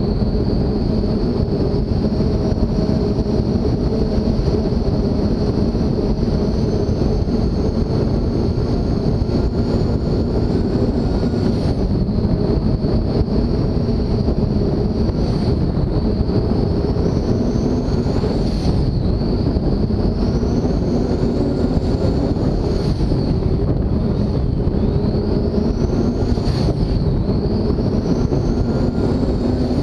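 44-foot MTI race boat's engines running hard at speed, a loud, steady drone with a high whine that rises and falls every few seconds in the second half.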